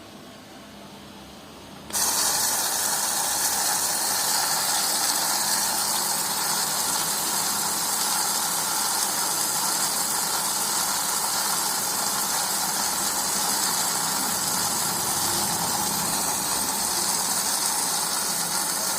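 Zanussi washing machine's water inlet valve opening about two seconds in, with a loud, steady hiss of water rushing in as the machine fills.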